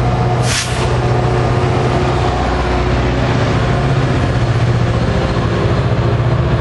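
Diesel locomotive engine running steadily close by, a heavy low drone with a steady hum over it. A short hiss cuts in about half a second in.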